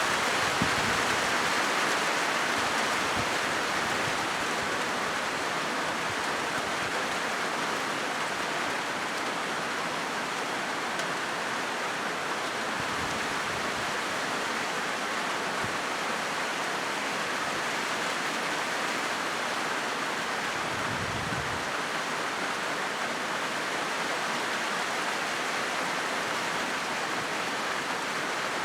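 Steady rain falling on a corrugated zinc roof: an even, unbroken hiss with a few faint low thumps.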